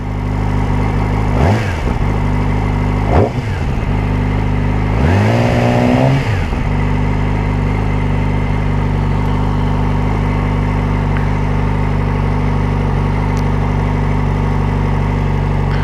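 A 2009 Yamaha R6's inline-four engine idling through an aftermarket M4 exhaust, revved in three throttle blips: short ones about a second and a half and about three seconds in, then a longer one held for about a second around five to six seconds in. It then settles back to a steady idle.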